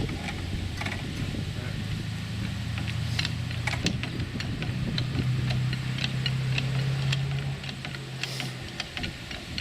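A motor hums steadily, stepping slightly up in pitch about halfway through and stopping shortly before the end. Many light ticks and clicks sound throughout.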